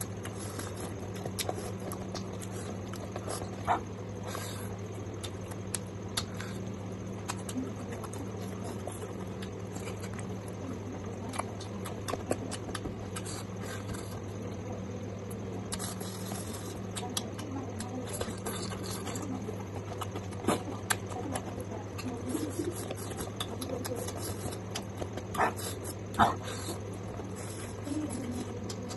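Close-miked eating sounds: chewing and lip-smacking on rice and pork, with scattered short wet clicks from the mouth and the hand working the rice, a few louder ones after about twenty seconds. A steady low hum runs underneath.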